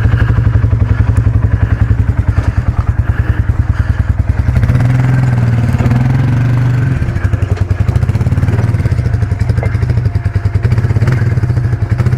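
KTM 1090 Adventure R's big V-twin engine running with a fast pulsing beat. About four and a half seconds in its note steps up a little and then holds steadier.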